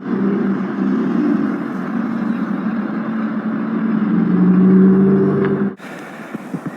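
A motor vehicle's engine running with a steady hum, growing louder about four seconds in, then cut off abruptly near the end, leaving quieter noise.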